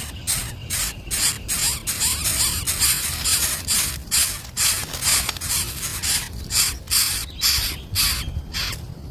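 Nestling birds giving harsh, raspy begging calls, about two or three a second, which stop shortly before the end.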